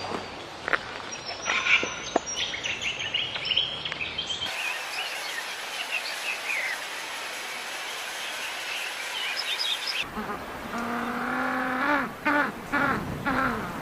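Chirping bird calls over outdoor background noise, then, in the last few seconds, a different animal's low pitched calls that bend up and down.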